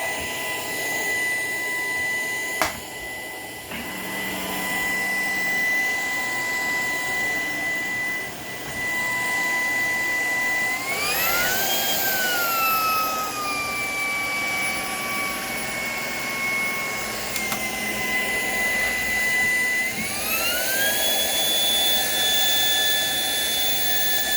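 Shark PowerDetect cordless vacuum running, its motor giving a steady whine over a rush of air. About eleven seconds in the motor speeds up, then slowly eases back down; near twenty seconds it speeds up again and holds at a higher whine. A single sharp click comes early.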